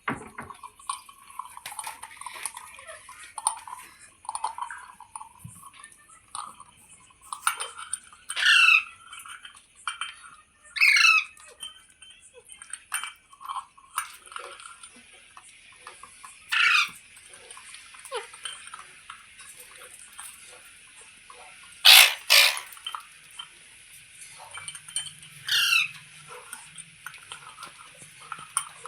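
Green ringneck parrot giving a series of loud, short screeching calls that sweep in pitch, about six in all with two in quick succession past the middle, with softer chattering and clicks between them.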